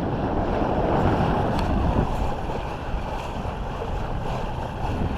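Wind buffeting the microphone and water rushing along the hull of a traditional east coast sailing smack under sail in a moderate breeze, a steady rushing noise.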